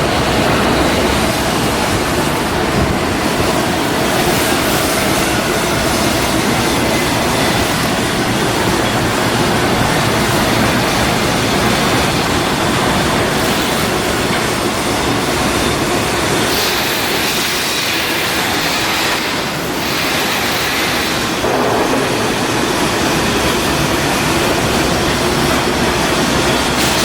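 Loud, steady machinery noise of shipyard work, a dense rumble and rattle with a brief shift in its higher part about two-thirds of the way through.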